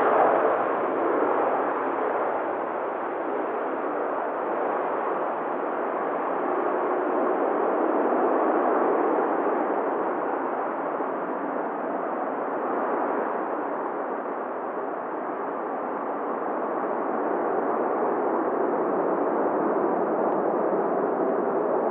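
Four jet engines of an Airbus A380-842 at takeoff power, a steady roar that slowly swells and eases.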